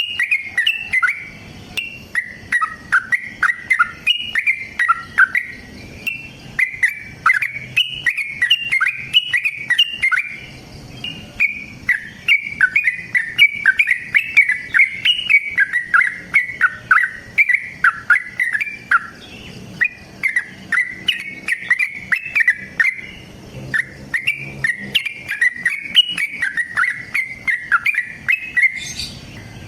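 Yellow-vented bulbul (trucukan) singing in long, fast runs of bubbly chirping notes, broken by brief pauses.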